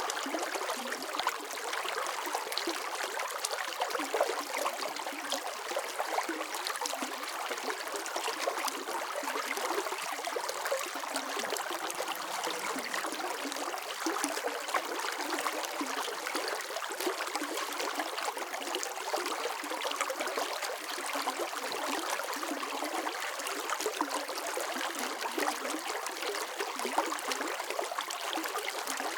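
Running water flowing and trickling steadily, a continuous splashy rush with fine bubbling detail and little bass.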